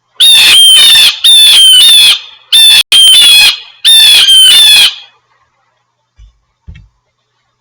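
Blue jay giving a series of about five loud, harsh, downslurred "jay" calls over about five seconds.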